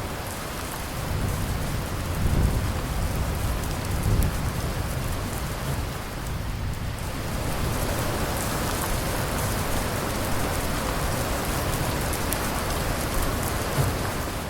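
Steady heavy rain hissing, with low rolls of thunder rumbling around two and four seconds in.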